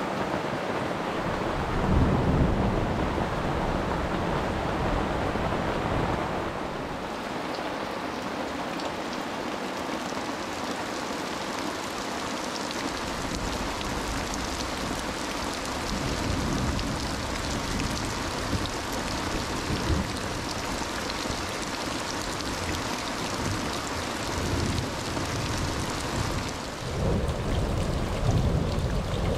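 Steady rain falling, a dense even hiss, with a few short low rumbles about two seconds in, midway and near the end.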